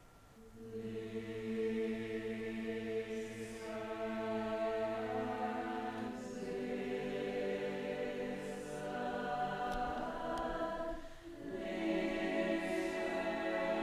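Several voices singing long held notes together in harmony, without clear instruments, in phrases that break about 6 and 11 seconds in.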